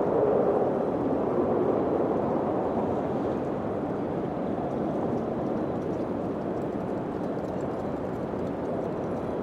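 Steady wind blowing, a little stronger in the first couple of seconds, then easing to an even rush.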